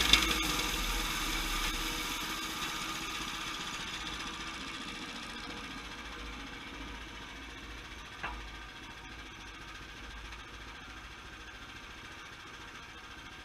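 Sawmill engine winding down from full running, fading steadily to a low idle, with a single sharp knock about eight seconds in.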